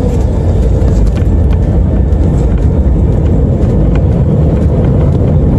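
Airliner cabin noise: a loud, steady low rumble of the engines and rushing air, with light scattered rattles and clicks.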